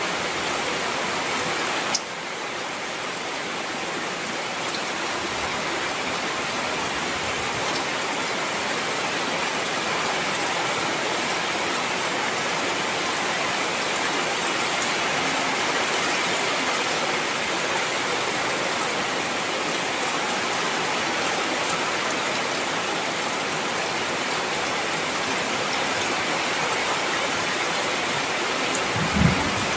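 Heavy rain falling steadily, a dense, even hiss. There is a single sharp click about two seconds in and a brief low rumble near the end.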